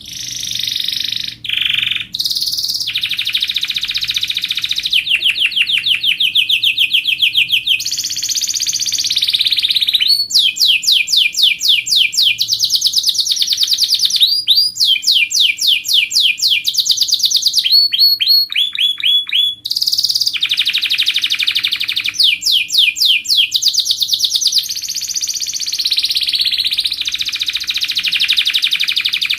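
Canary singing a long, unbroken song of fast rolling trills, moving to a new repeated note pattern every second or two.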